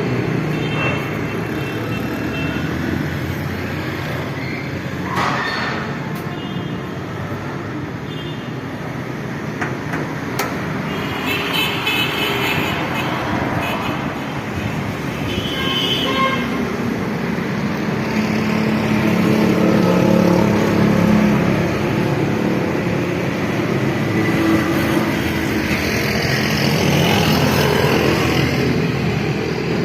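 Road traffic noise, with vehicles running and brief car-horn toots.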